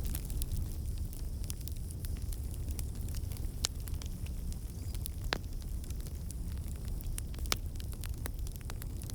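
Wood fire burning in a fireplace: a steady low rumble of flames with scattered sharp crackles and pops, three of them louder than the rest.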